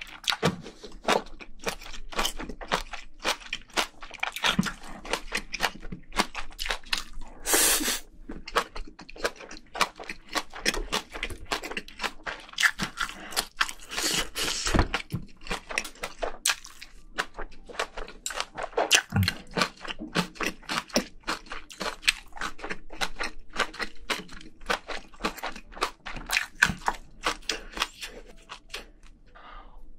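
Close-miked mouth sounds of chewing spicy braised seafood and bean sprouts: a steady run of wet clicks and crunches, with a few louder bites.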